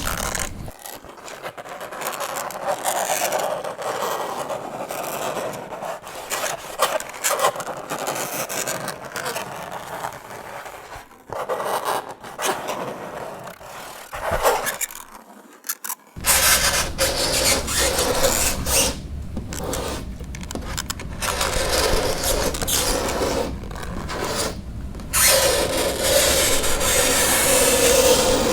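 Fingernails scraping across a chalkboard in irregular rasping strokes. A pitched squeal comes through near the start and again near the end, with a brief lull about halfway through.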